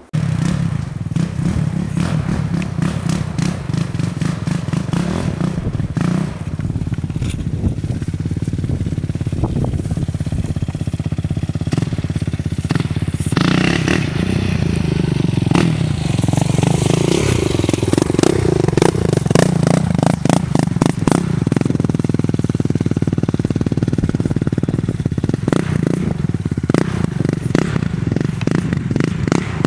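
Four-wheeler (ATV) engine running steadily while riding a trail, with its pitch rising and falling in the middle, and frequent clatters and knocks over the top.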